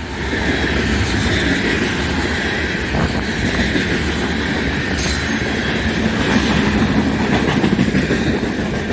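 A CN mixed-freight train rolling past close by: a steady rumble and clatter of wheels on the rails, with a brief sharp high sound about five seconds in.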